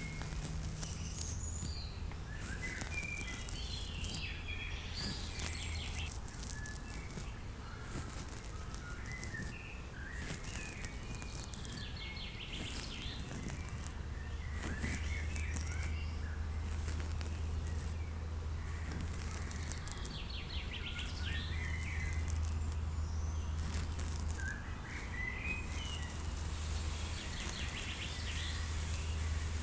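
Recorded nature ambience: birds chirping here and there over a steady low hum.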